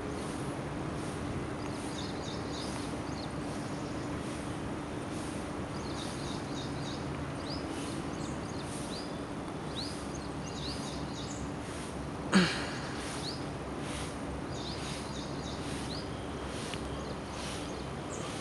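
Small birds chirping repeatedly in short rising notes over steady background noise with a low hum. About twelve seconds in, a single loud, brief sound sweeps down in pitch.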